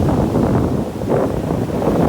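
Wind buffeting the microphone, a loud, gusty rumble.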